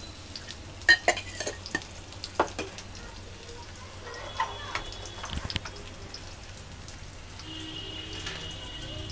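Rolled arbi-leaf patode shallow-frying in oil in a frying pan: a steady low sizzle, with several sharp clicks in the first three seconds and a few more around the middle.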